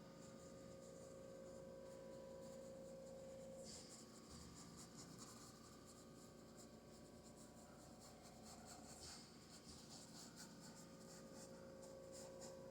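Faint scratching of a paintbrush being stroked across canvas, coming in stretches, over a steady faint hum.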